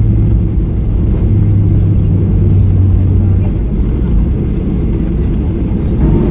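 Cabin noise of a Boeing 737-800 on its approach or landing: a loud, steady rumble of engines and airflow, with a low hum that fades about three and a half seconds in.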